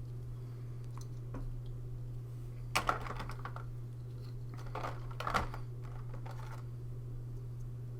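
Hard plastic clicks and rattling from plastic board-game miniatures being handled and set down on a table, in two short bursts about three and five seconds in, with a few single clicks before. A steady low hum lies underneath.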